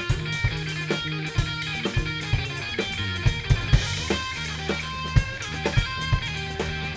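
A live rock band playing an instrumental passage: electric guitar over sustained bass notes and a drum kit keeping a steady beat, with a cymbal crash about four seconds in.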